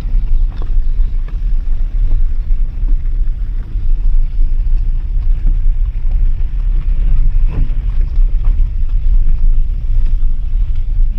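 Loud, low, fluctuating rumble of a moving vehicle, with wind buffeting the microphone.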